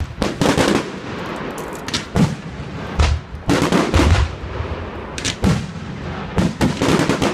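Fireworks display going off: an irregular run of sharp bangs and crackles, with deeper booms about three and four seconds in.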